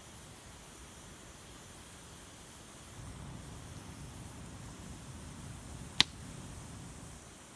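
Wood fire burning with a steady soft hiss and low rumble, and a single sharp pop from the burning firewood about six seconds in.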